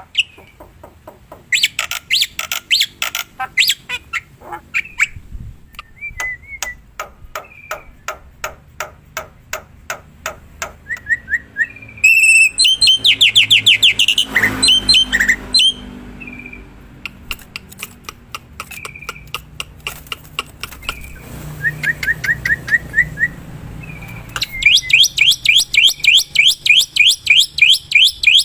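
Black-winged myna (jalak putih) calling loudly in bursts of rapid harsh chattering and clicking notes. Twice, about halfway through and again near the end, it breaks into long runs of quick repeated whistled notes.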